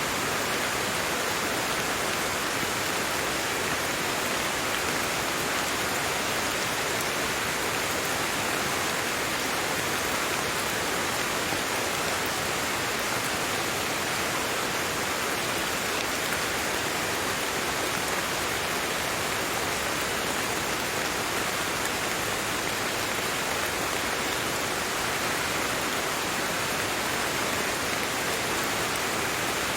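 Steady, even rain with no distinct drops or changes.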